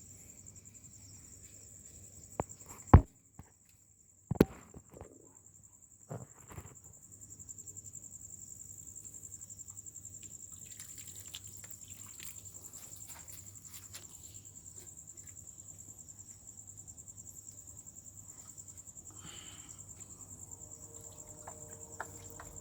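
Steady high-pitched chirring of crickets, with a few sharp knocks in the first six seconds, the loudest about three seconds in.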